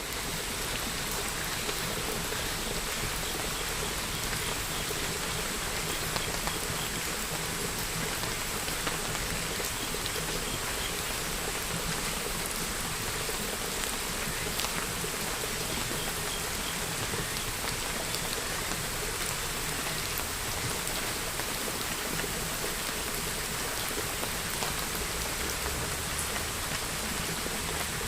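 Steady rain falling: an even, unbroken hiss of rain, with scattered individual drops ticking on a surface.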